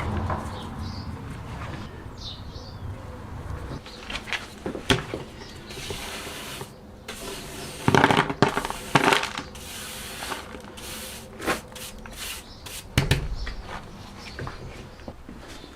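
Irregular knocks, clicks and scrapes of tools and parts being handled during hands-on workshop work, loudest in a cluster of sharp clacks about eight to nine seconds in, with a dull thud a few seconds later.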